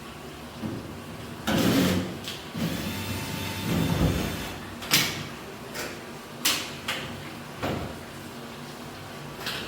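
A short scrape, then a longer scraping slide of about two seconds, followed by four sharp knocks spread over the next few seconds, like hard parts being handled and set down.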